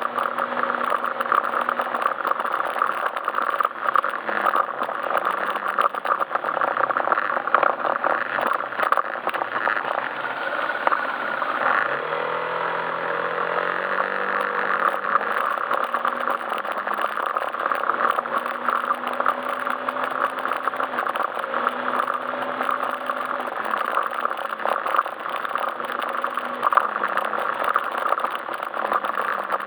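Yamaha Majesty S scooter's single-cylinder engine running while riding. The engine note moves up and down with the throttle and rises clearly about twelve seconds in, under steady road and wind noise with frequent small rattles.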